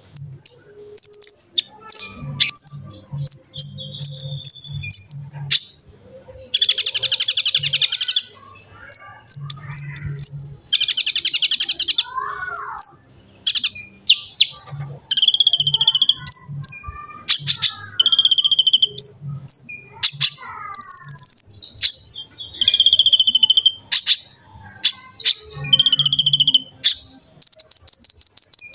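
Konin (kolibri ninja) sunbird singing: a rapid, busy run of high chirps and twitters, broken by two long, fast buzzing trills and ending on a long high note.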